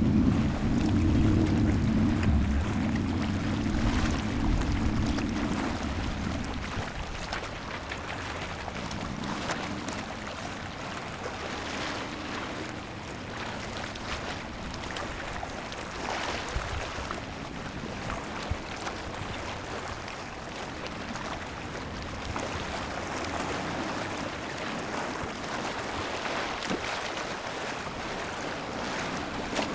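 A boat's engine drones low and fades away over the first several seconds. Wind and waves go on after it.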